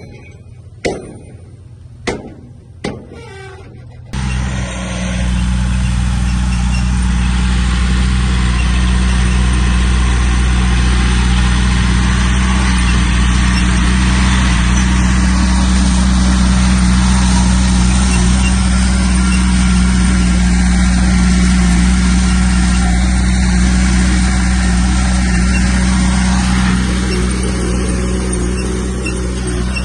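A few sharp knocks, then the diesel engine of heavy earthmoving machinery comes in loudly and suddenly about four seconds in and runs steadily, easing off slightly near the end.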